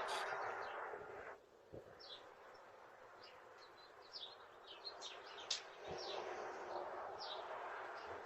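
Small birds chirping: many short, quick falling chirps scattered throughout, over a faint rushing noise that is stronger about the first second and again in the last couple of seconds.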